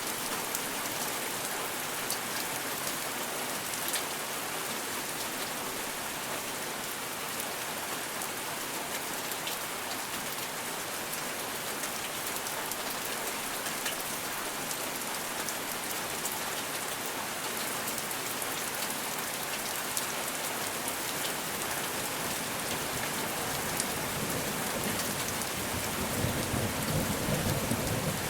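Steady rain falling, a dense hiss of drops with many fine ticks. Near the end a low rumble of thunder swells in underneath.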